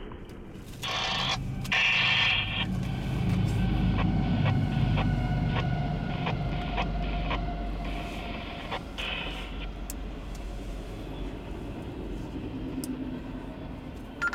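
Intermodal freight train of highway trailers on flatcars rolling past: a steady low rumble with regular clicking of wheels over rail joints, about two a second, and a faint high squeal. A short burst of noise comes before the rumble builds.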